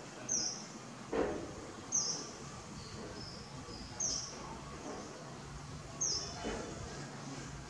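A bird repeats a short, high chirp about every two seconds, with a few softer, lower chirps in between, over a steady outdoor background hiss. A brief lower sound stands out twice, about a second in and near the end.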